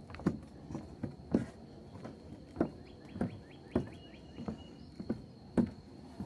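Footsteps and trekking-pole taps on a wooden boardwalk, an even walking rhythm of about one step every 0.6 s. A steady high insect buzz runs underneath, and a quick run of short bird chirps comes in the middle.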